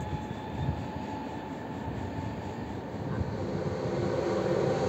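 High-speed electric train approaching along the station track, its running noise growing steadily louder from about three seconds in as it draws level.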